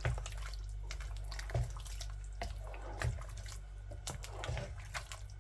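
A spoon stirring a pan of green curry in coconut milk sauce: wet sloshing with irregular knocks of the spoon against the pan, over a steady low hum.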